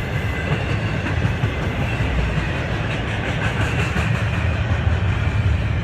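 Train passing close by: a steady rumble of wheels on the rails with a clickety-clack rattle.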